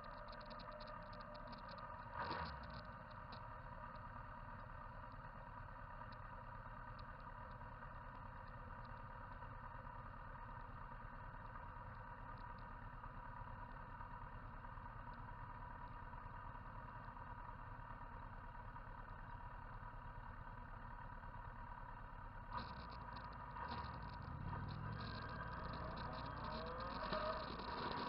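Motorcycle engine running steadily at low level, with a single knock about two seconds in. Over the last several seconds the engine noise grows louder and busier.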